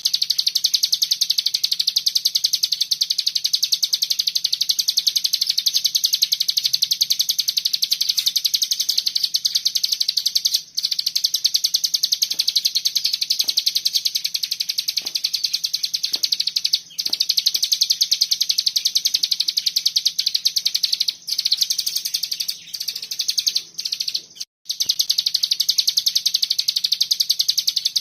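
Hill prinia (ciblek gunung) singing a dense, rapid, machine-gun-like trill, the continuous 'ngebren' song, high-pitched with only a few brief breaks. A faint steady low hum runs beneath it.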